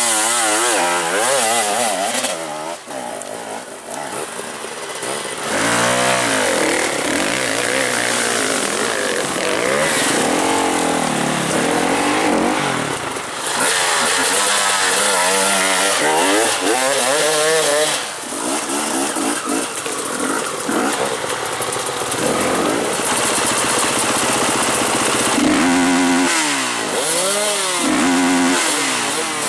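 Enduro dirt bike engines revving hard and easing off again and again, the pitch sweeping up and down, with a buzzy, chainsaw-like edge.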